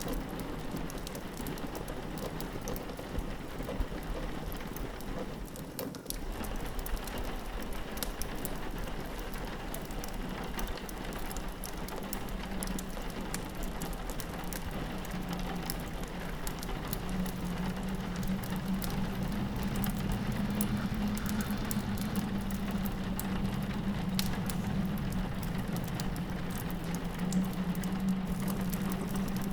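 Rain pattering on a window over a steady hiss, with a fireplace crackling in scattered sharp pops. A low wind hum grows louder from a little past the middle.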